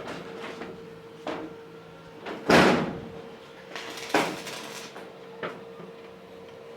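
A few sudden knocks and scrapes, like something being handled or moved, the loudest about two and a half seconds in and another a little over four seconds in, over a faint steady hum.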